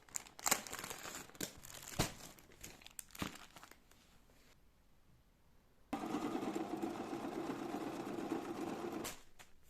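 Crinkling and rustling with sharp clicks as something is handled, for the first few seconds. After a quiet stretch, a steady machine hum starts about six seconds in and stops just after nine.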